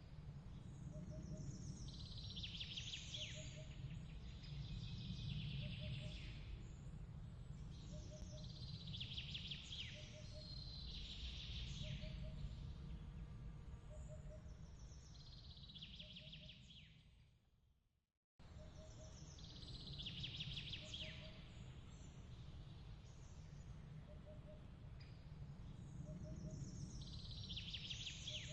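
Night-ambience loop: a steady low rumble under chirping trills that recur every two or three seconds, with a faint regular pip about once a second. The sound fades out about two-thirds of the way in, then cuts back in abruptly and repeats the same pattern.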